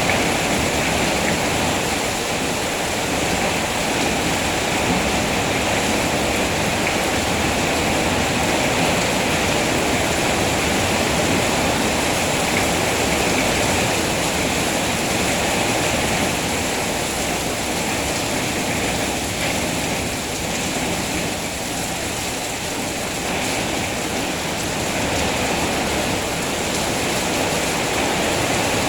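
Steady rain falling, an even rushing hiss that eases slightly for a few seconds past the middle.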